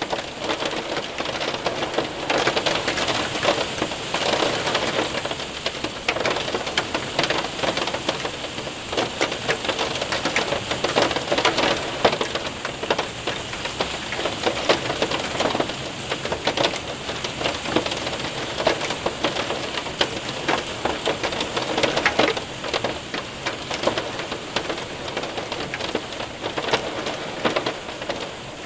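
Hail and rain hitting a window and roof: a dense, steady rush of rain with many sharp clicks of hailstones striking.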